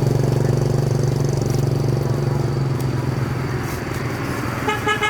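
A motorbike engine running close by, a steady low hum that gradually fades after about four seconds. A short horn beep comes near the end.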